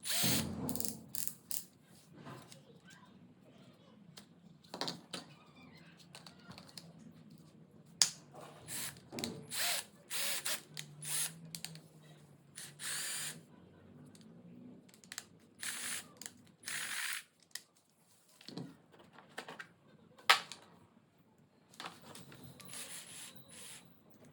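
12-volt cordless drill run in many short, irregular bursts with brief pauses between.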